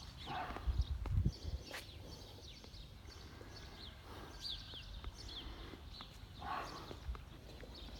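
Small birds chirping over and over in short, quick, falling notes, against faint outdoor hiss. A few low thumps on the microphone come about a second in.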